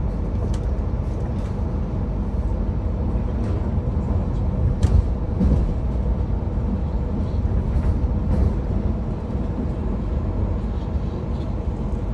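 Passenger train running, heard from on board: a steady low rumble with a few short sharp clicks, the loudest about five seconds in.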